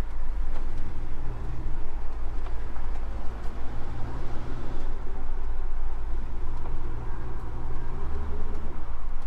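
A 1957 Chevrolet Bel Air's engine running at low speed as the car creeps along, heard from inside the car. It gives a steady low note that drops lower for a moment about eight seconds in.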